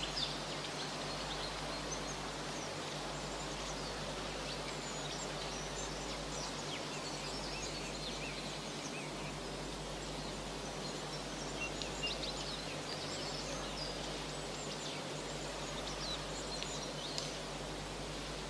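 Steady background hiss with a low hum, and short, high bird chirps scattered through it in small clusters now and then.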